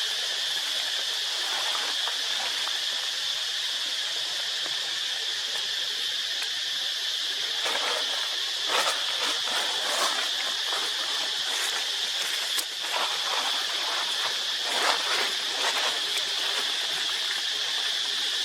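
Steady high-pitched insect drone, with scattered rustles and taps in the second half.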